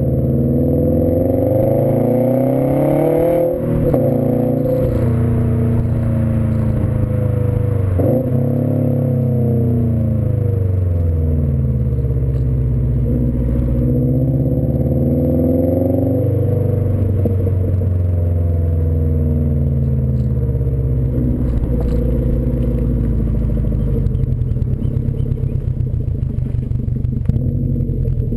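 2015 Subaru WRX STI's turbocharged flat-four running through a Nameless aftermarket exhaust. The revs climb and drop sharply twice, at what sound like gear changes, then fall and rise again. Near the end it settles to a steadier low note with a pulsing beat.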